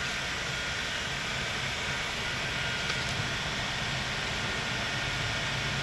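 Steady background noise: an even hiss with a faint high whine, and a single faint tick about three seconds in.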